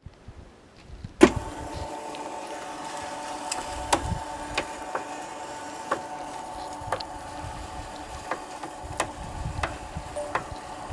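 Electric motor of a homemade pipe and profile bending machine switching on with a sharp click about a second in, then running with a steady hum, broken by short clicks and knocks about once a second.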